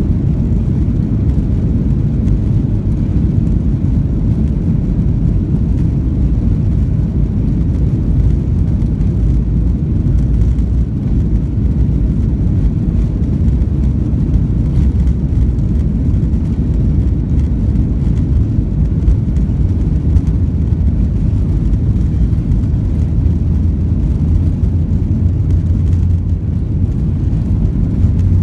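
Boeing 737-800's CFM56-7B engines and airflow heard from inside the passenger cabin in flight: a steady low rumble.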